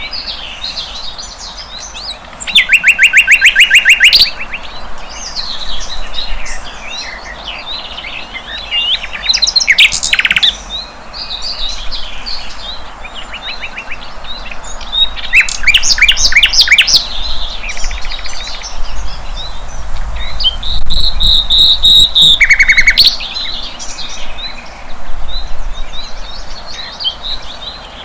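A sikatan londo flycatcher singing a long, varied song of quick chirps and twittering, broken by several loud, fast rattling trills, the first about two and a half seconds in and the last ending about twenty-three seconds in.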